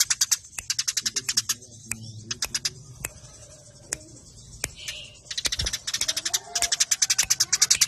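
Eurasian tree sparrows chirping in fast, tightly packed runs of short high chirps, the rapid squabbling chatter of fighting sparrows. The runs break off about 1.5 s in, with a brief burst near 2.5 s and only scattered chirps after it, then resume about 5 s in and carry on.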